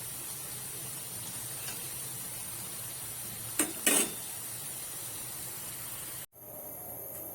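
Pakoras deep-frying in hot oil, a steady sizzle, with two quick knocks of a utensil against the pan about three and a half seconds in. The sizzle cuts off suddenly near the end.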